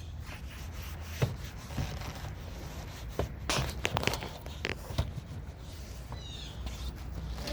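Handling noises while a car door's inside panel is cleaned with spray and a towel: scattered knocks and clicks, a short hiss about halfway through, and a quick run of high squeaks near the end.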